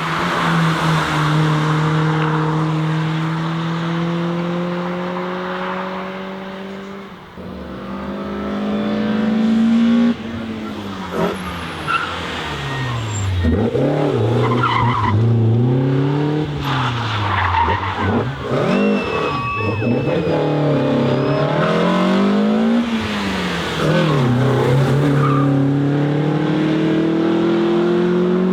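BMW E30 M3's S14 four-cylinder engine driven hard: a long pull with a gear change about seven seconds in, then the revs dropping and climbing again over and over as the car is worked through corners. Tyres squeal briefly about two-thirds of the way through, and it ends on another long pull.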